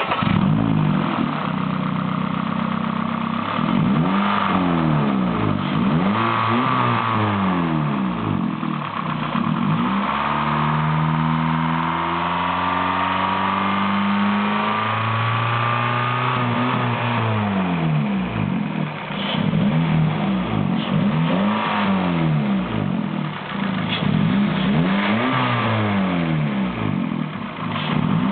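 Honda Fit GK3's L13B 1.3-litre four-cylinder petrol engine running and being revved repeatedly from idle, each rev rising and falling back. There is one slower, longer rise and fall in the middle, with short blips before and after.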